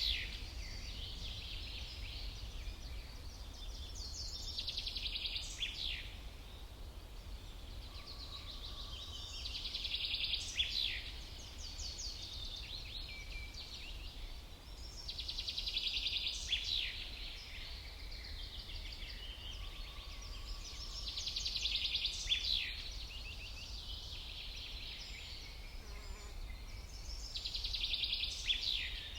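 A songbird singing a short, high phrase of rapid trills and down-slurred notes, repeated about every six seconds, over a steady low rumble.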